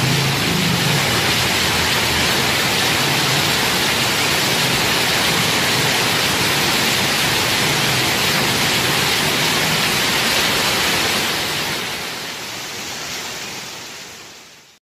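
Heavy rain pouring down in a steady hiss, fading out over the last few seconds.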